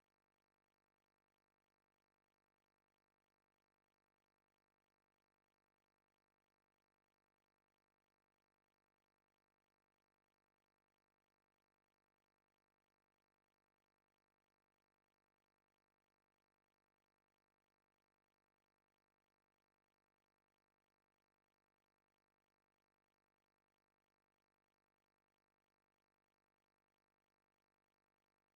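Near silence: only a steady, inaudibly faint noise floor.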